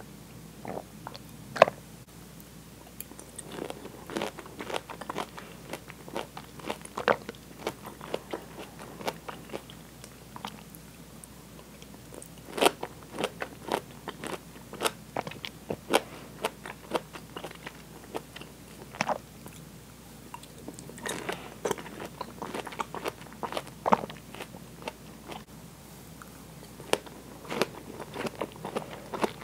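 Close-miked chewing of fresh pineapple chunks: a steady run of short, sharp mouth clicks and bites, bunched in clusters.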